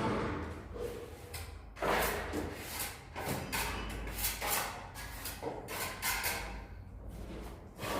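A hand tool scraping and spreading gypsum plaster in a run of short, irregular strokes, with a few knocks among them.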